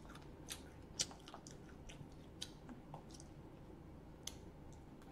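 Faint mouth sounds of chewing fried chicken: soft wet clicks and crackles, with one sharper click about a second in.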